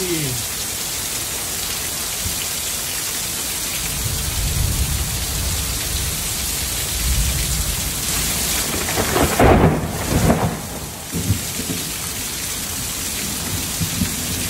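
Heavy hurricane rain pouring steadily onto pavement and cars, with a low rumble of thunder building in the middle and peaking about two-thirds of the way through.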